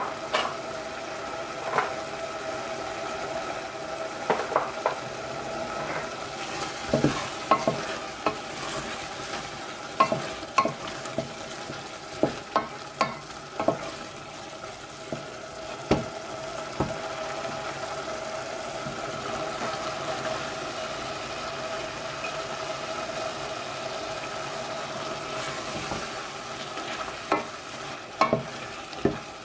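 Food frying in a pan with a steady sizzle, while a utensil stirring it knocks sharply against the pan, many times in the first half and again a few times near the end.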